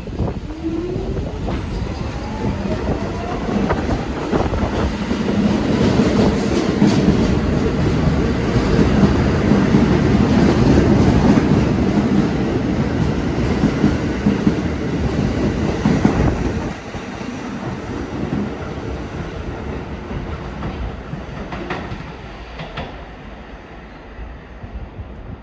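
R46 subway train running through the station, its wheels clacking over the rail joints. The sound builds to a peak, drops off sharply about two-thirds of the way through and fades as the train moves away.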